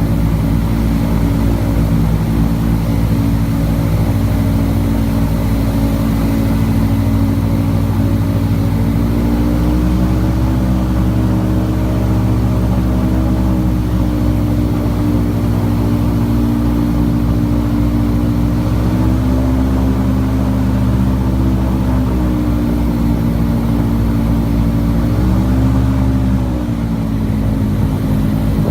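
Airboat's engine and propeller running steadily, the engine note rising about ten seconds in and going up and down a few times near the end.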